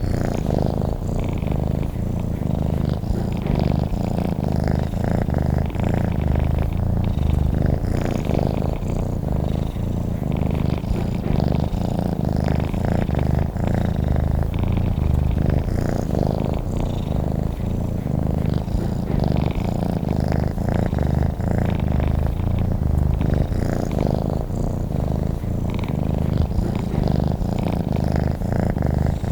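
Domestic cat purring close up, a continuous low rumble that swells and eases every few seconds with its breathing.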